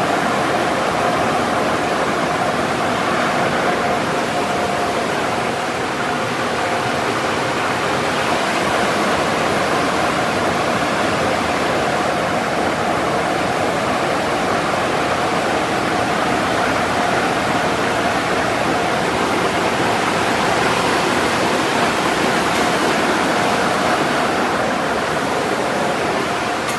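Steady rush of water spray at a car wash, with a faint steady whine from the machinery under it.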